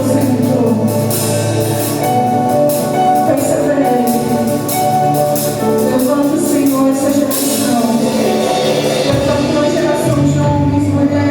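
Christian worship song played live by a band, with a singing voice over sustained instruments and steady percussion hits.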